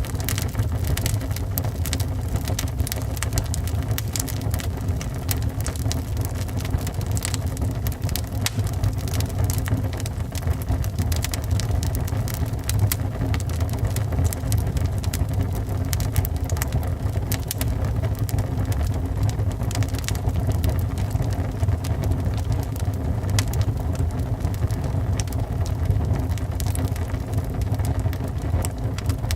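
Wood fire burning in a fireplace, crackling with many quick sharp snaps and pops over a steady low rumble.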